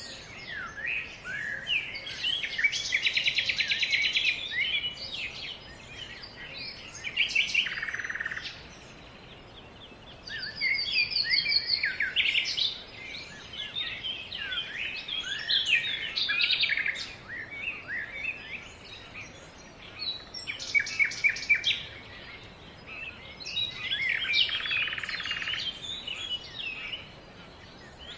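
Several songbirds singing and calling at once, a busy mix of overlapping chirps, whistles and rapid trills.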